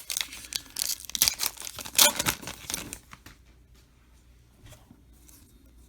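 Foil trading-card pack wrapper being torn open and crinkled: a run of rips and rustles, loudest about two seconds in, that stops after about three seconds, leaving only faint card handling.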